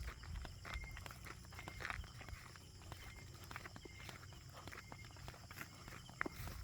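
Footsteps crunching irregularly over dry leaf litter and twigs on a forest floor, with short high chirps repeating every second or so.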